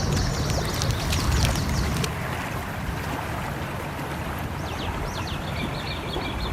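Steady rush of a flowing stream, with sharp crackles of a wood fire in the first two seconds. In the second half a bird calls: a few quick high sweeps, then a rapid run of high notes.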